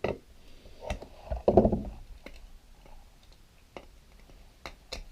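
Scattered light clicks and taps of small tools and plastic parts being handled on a work surface, with one louder knock about one and a half seconds in.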